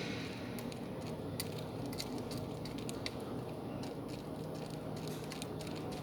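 Pet bird moving about in a box, pecking and scratching: irregular sharp clicks and taps over a steady low hum.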